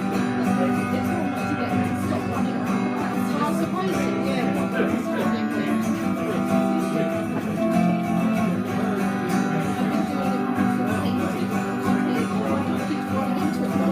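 Guitar strummed in a steady chord pattern, an instrumental passage with no singing.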